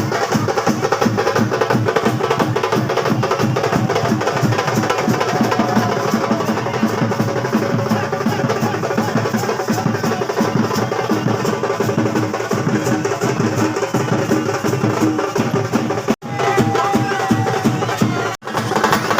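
Fast, dense drumming with sharp clicking percussion over it, broken twice near the end by a brief silent gap.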